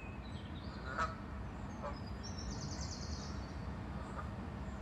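Geese honking in alarm: a loud honk about a second in and a weaker one just before two seconds, with a rapid high-pitched trill of calls a little later.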